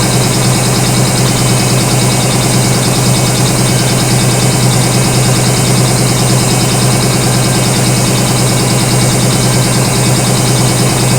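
Washing machine running, its motor giving a loud, steady hum with no pauses.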